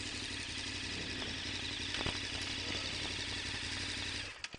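Motorcycle engine idling steadily, a low even hum that stops abruptly near the end.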